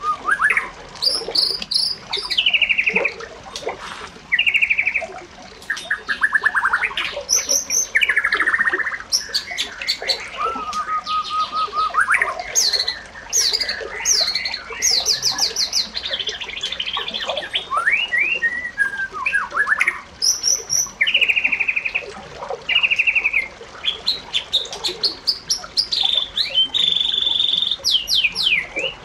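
Several birds singing and calling at once, a steady run of overlapping chirps and fast trills.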